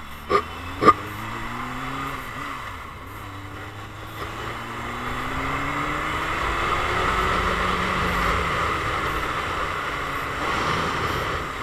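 Motorcycle engine running under way, its pitch climbing through the gears and dropping between shifts, with wind rush growing as speed builds. Two short sharp knocks sound in the first second.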